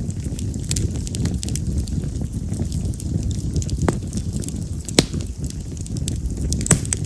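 Split yamazakura (wild mountain cherry) firewood burning in an open bonfire: a steady low rumble of flame with scattered crackles, and a few sharp pops in the second half.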